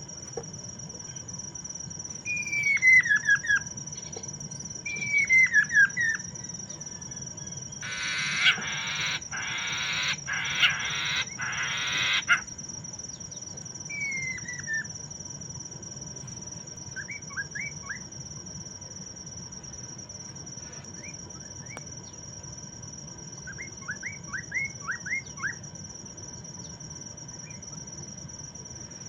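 Poksay Mandarin (giant laughingthrush) singing: falling whistled phrases several times, a run of four loud harsh rasping calls about a third of the way in, then clusters of short quick notes. A steady high-pitched tone runs underneath throughout.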